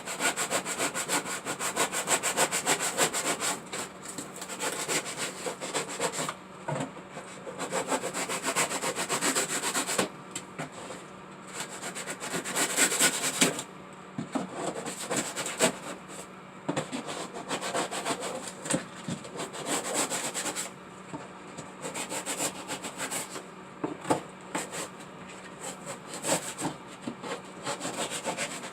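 Rapid back-and-forth scraping strokes of a hand blade cutting off excess material from a hand-built turtle waterfall. The strokes come in spells of a few seconds with short pauses between.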